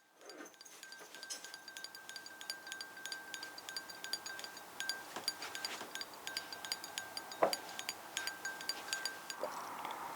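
Rapid light tinkling of small chimes, many quick ringing strikes, over a faint steady high tone. There is one louder knock about seven seconds in, and a soft hiss comes in near the end.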